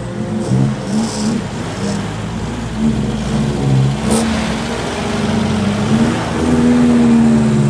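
A car engine running, with a short rev about four seconds in.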